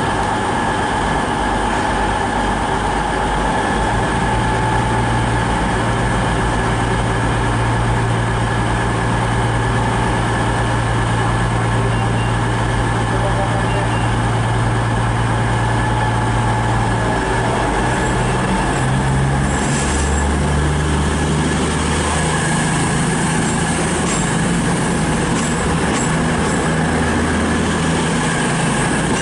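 Underfloor diesel engines of a British Rail Class 220 Voyager train running steadily as it pulls out of the platform. The engine note changes and drops about two-thirds of the way through, and faint high squeals or ticks from the wheels follow near the end.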